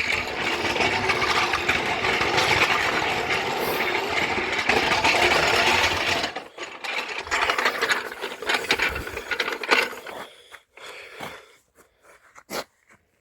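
Floor jack being rolled along, its wheels and metal frame rattling steadily for about six seconds, then a few scattered clanks and knocks as it stops.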